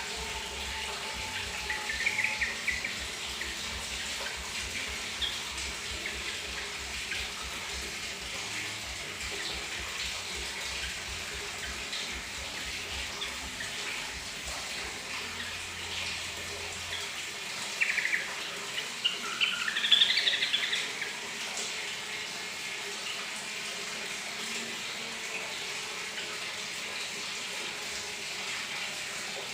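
Bathroom tap running steadily, splashing water. A yellow-vented bulbul calls briefly about two seconds in, then sings a louder burst of notes about two-thirds of the way through, set off by the sound of the running water.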